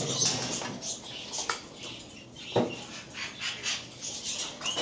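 Caged parrots chirping and squawking in short scattered calls, with a couple of sharp clicks or knocks, the louder one about two and a half seconds in.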